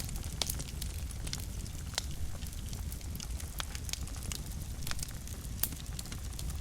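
Wood fire burning in a fireplace, crackling with irregular sharp pops over a low steady rumble of the flames. The loudest pops come about two seconds in and near the end.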